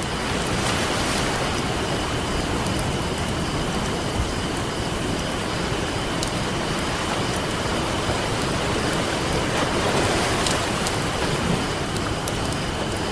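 Campfire crackling with scattered sharp pops over steady ocean surf, the waves swelling about a second in and again near the end.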